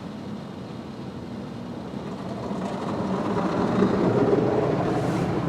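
Mark VII automatic car wash machinery running, heard from inside the car: a steady rumble and wash noise that grows louder from about two seconds in as the wash cycle works over the car.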